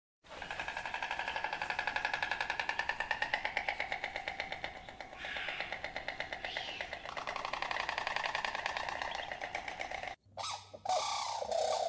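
Painted stork making a rapid, even rattle, about ten pulses a second with a buzzy pitched tone, that stops abruptly. Near the end a grey crowned crane gives short honking calls.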